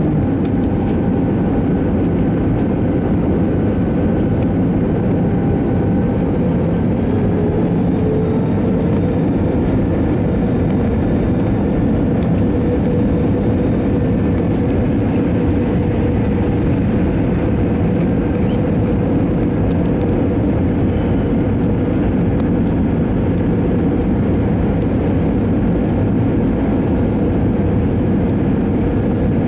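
Steady jet engine and airflow noise heard inside the cabin of an Airbus A321-200 airliner, an even rumble and hiss with a faint engine whine that rises a little about eight seconds in.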